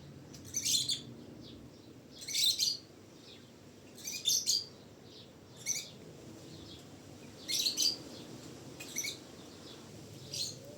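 A bird chirping in short, repeated bursts, about one burst every one and a half to two seconds, over faint background noise.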